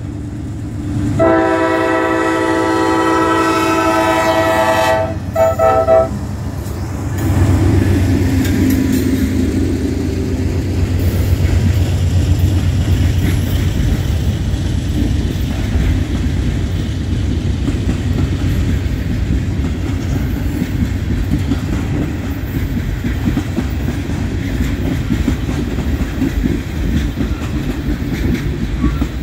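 Norfolk Southern GE C44-9W freight locomotive sounding its horn for a grade crossing: one long blast, then two short ones about five seconds in. The locomotive's diesel engine then passes close by, followed by the steady rumble and clatter of loaded tank cars rolling over the crossing.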